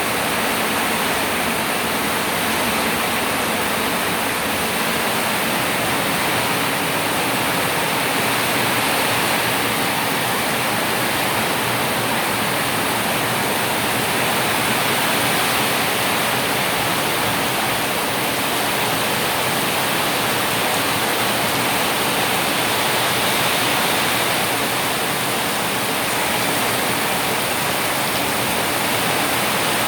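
Steady, even rushing of water, with no breaks or separate drops or splashes standing out.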